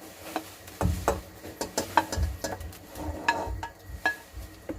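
Pieces of chicken being added one by one to a pan of curry sauce: a string of irregular soft thuds and small clicks.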